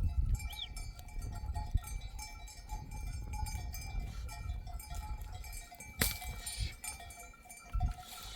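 Bells on a grazing sheep flock ringing and clinking unevenly, several tones overlapping, over a low rumbling noise. A sharp click sounds about six seconds in.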